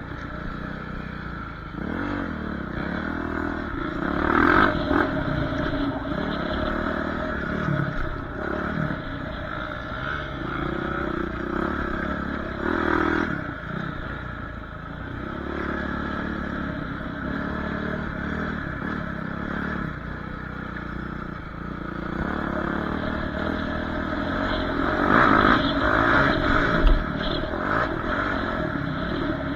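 Dirt bike engine being ridden, its pitch rising and falling with the throttle, with louder surges several times, the loudest near the end.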